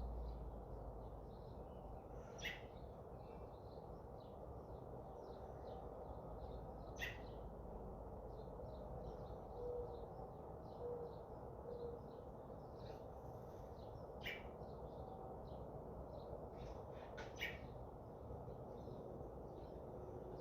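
Small birds chirping: many short, sharp high chirps scattered throughout, with louder single chirps every few seconds, over a steady low background hum.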